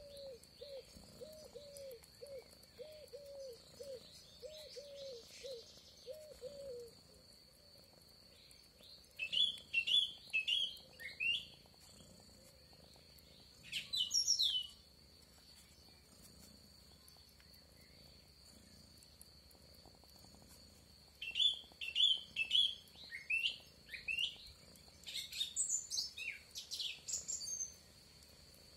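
Songbird singing short phrases of quick, high, downward-sliding notes, three times, over a steady high insect trill. For the first seven seconds a lower call repeats about twice a second, then stops.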